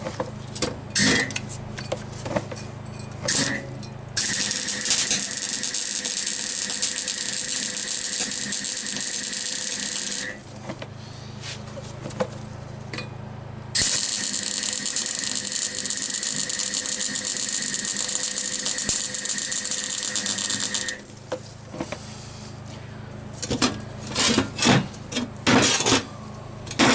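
MIG welder laying weld on a steel bracket: two long runs of dense crackling hiss, about six and seven seconds, each starting and stopping abruptly. Short knocks and metal clatter come between the runs and near the end.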